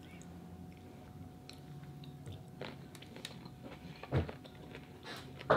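A person chewing food close to the microphone, with scattered soft mouth clicks and one louder short sound about four seconds in.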